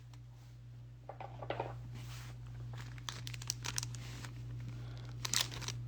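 Foil wrapper of a Pokémon card booster pack crinkling as it is handled, in a run of small crackles that grows busier about halfway through, over a steady low hum.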